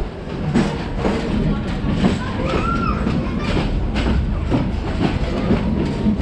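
A train running on the track, its wheels knocking irregularly over the rail joints over a low rumble.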